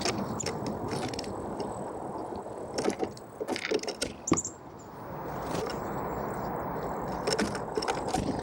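Small songbirds pecking and tapping at seeds on a feeder: irregular sharp clicks and taps, thickest in two clusters, over a steady outdoor background hiss.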